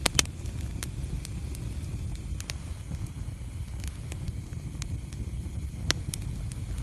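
Fireplace fire crackling: scattered sharp pops and snaps over a steady low rumble of the flames, with louder pops just after the start and about six seconds in.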